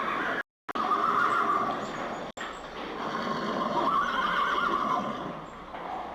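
Horses whinnying, several calls one after another, broken by a brief dropout to silence about half a second in and an abrupt cut a little over two seconds in.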